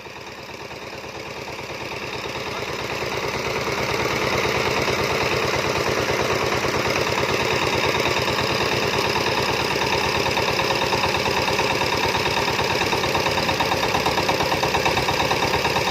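Diesel engine of a power tiller or tractor running with a rapid, even thumping. It grows louder over the first few seconds, then runs steadily.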